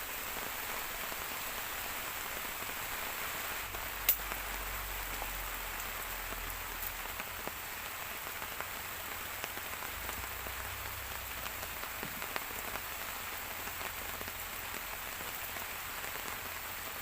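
Steady rain falling and pattering on surfaces, with one sharp click about four seconds in.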